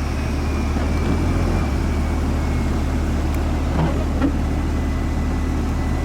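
Car running while being driven slowly: a steady low engine and road hum with a few faint clicks.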